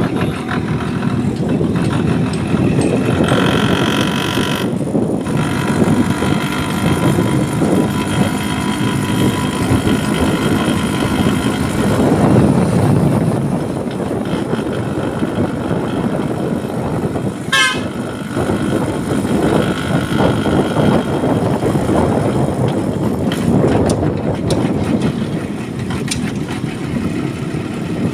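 Motorcycle ride on a road: steady engine, wind and traffic noise, with a vehicle horn sounding a few seconds in.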